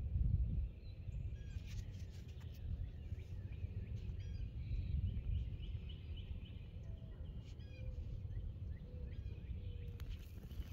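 Small birds chirping with short calls, repeated throughout, over a steady low rumble.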